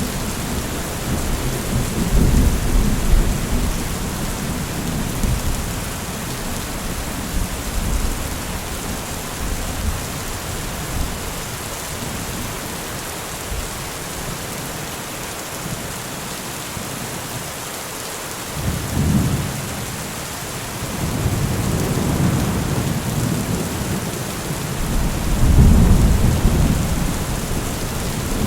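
Steady rain with rolling thunder: low rumbles swell a few times, the strongest near the end, over a constant hiss of rainfall.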